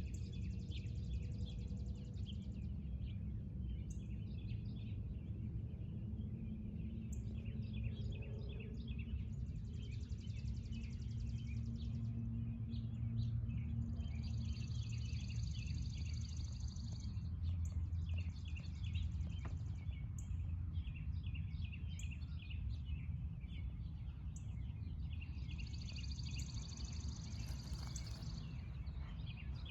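Several birds chirping and singing in many short, overlapping calls, with dense high trills a few seconds long that come and go, over a steady low rumble.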